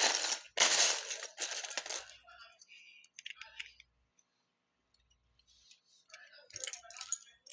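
Plastic Lego pieces clattering together, loudest in the first two seconds, then scattered small clicks of single pieces.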